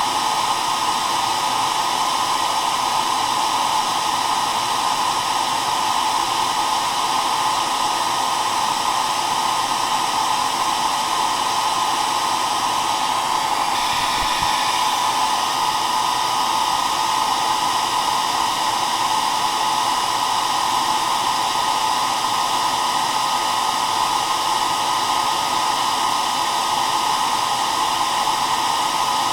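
Hair dryer blowing steadily: an even rushing whoosh of fan and airflow, strongest in a band around the middle, with a faint steady whine above it.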